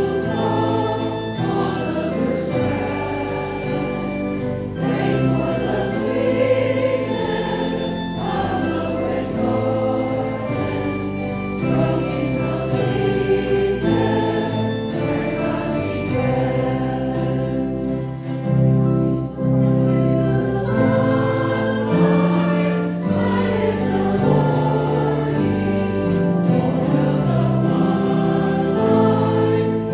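Many voices singing a hymn together.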